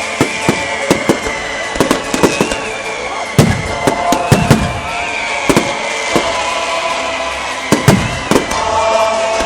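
Fireworks display: a rapid, irregular run of sharp bangs and crackles, over a high wavering whistle.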